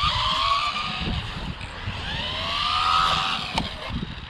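Electric 1/12-scale RC buggy's motor whining as it speeds up and eases off, twice, over a low rumble, with a sharp click about three and a half seconds in. The driver thinks its battery is getting weak.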